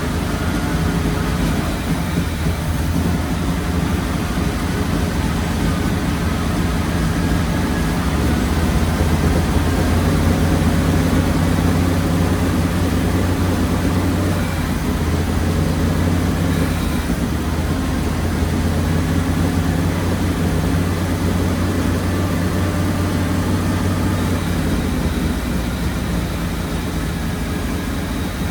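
Warmed-up flathead Ford V8 running steadily at idle while its twin Holley 94 carburetors are balanced by vacuum, a little louder through the middle stretch.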